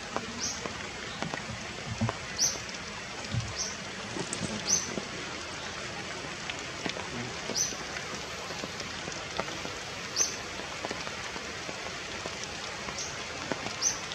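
Steady rain-like hiss with faint scattered knocks, and about ten short, high chirps at irregular intervals.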